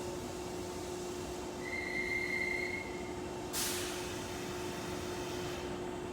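Railway station sounds with a steady low hum. A short, clear high tone sounds about a second and a half in, and a sudden hiss starts about three and a half seconds in and fades away.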